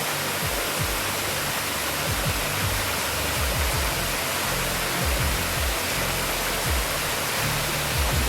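Steady rush of a waterfall, with background music's low bass notes under it.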